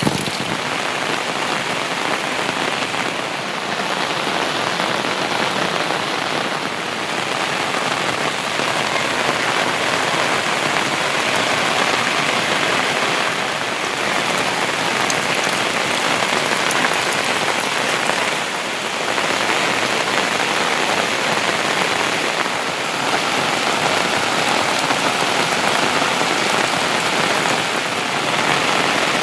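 Heavy monsoon rain falling and pattering steadily on surfaces, a dense, even hiss with no let-up.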